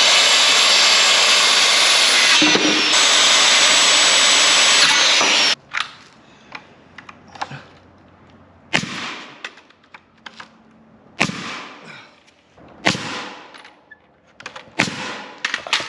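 A power tool runs loudly and steadily for about five and a half seconds, then stops suddenly. It is followed by several sharp knocks a second or two apart, the sound of work on the coop's timber frame.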